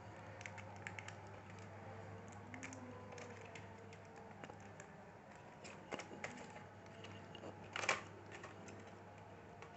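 Small scattered plastic clicks and taps of hands handling an HP Compaq CQ40 laptop's parts while fitting the motherboard back into the casing, with a sharper click about eight seconds in. A faint steady hum sits underneath.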